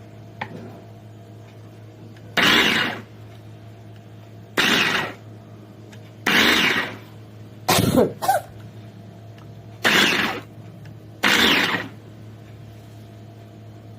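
Mini electric capsule chopper run in short pulses, about six bursts of under a second each, over a steady low hum. It is being test-run to show that it works.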